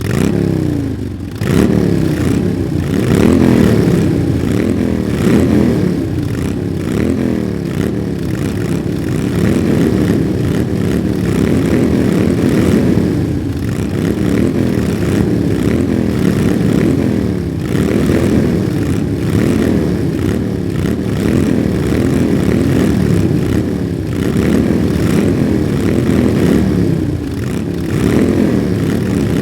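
Many motorcycle engines running together, their pitch rising over and over as they rev and accelerate.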